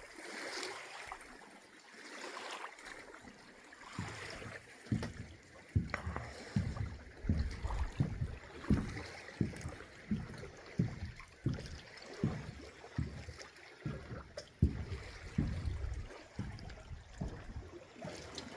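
Lake water washing and lapping at the shore. From about four seconds in there is a run of soft, even low thumps, roughly three every two seconds.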